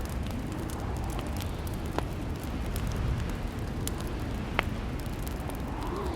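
Fireplace crackling: a steady low rumble of burning with scattered small pops, and two sharper snaps about two seconds and four and a half seconds in.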